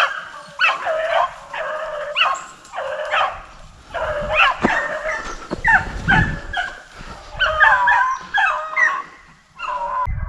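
A pack of beagles baying on a rabbit's trail: short, overlapping yelps and bawls from several dogs in quick succession, a sign the hounds are hot on the track.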